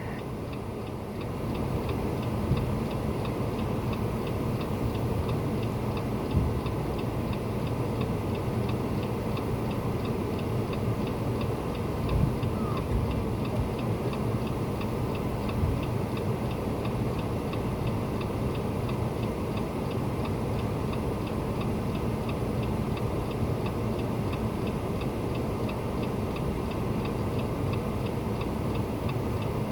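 A vehicle engine running steadily, with a faint, regular ticking over it.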